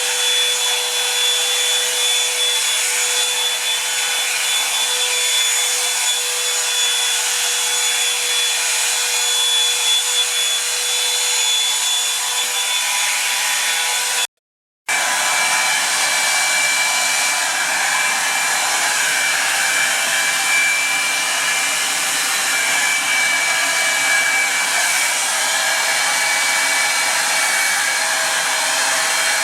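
Revlon One-Step Hair Dryer & Volumizer hot-air brush running steadily, its fan blowing with a constant whine. About halfway through it cuts out for half a second, then carries on with its whine at a different pitch.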